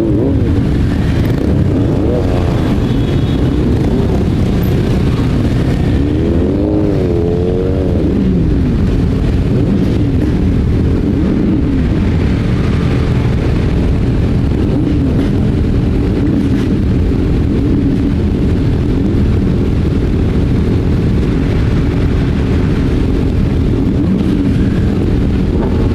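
Motorcycle engine running under way with heavy wind rush on the microphone; the engine pitch rises and falls several times in the first eight seconds as it changes speed, then holds steadier.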